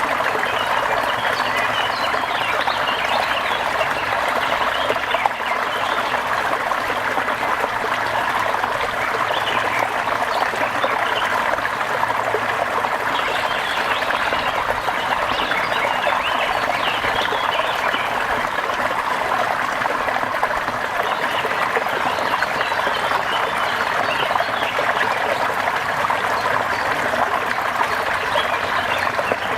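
Steady rain falling, a dense even patter with no breaks.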